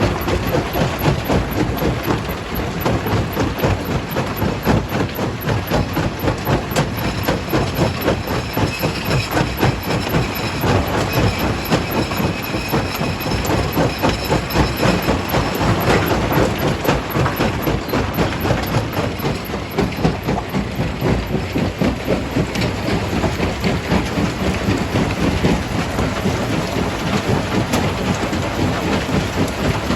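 Jaw crusher running and crushing rock: a steady, dense clatter of rapid knocks and rumble, with a faint thin high whine for several seconds in the middle.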